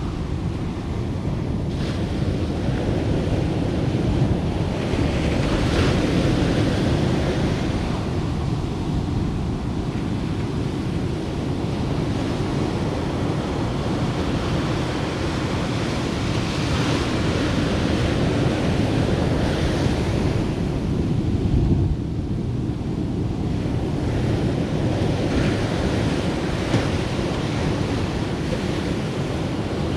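Ocean surf breaking and washing up a sandy beach, swelling and easing every few seconds, with a steady rumble of wind buffeting the microphone.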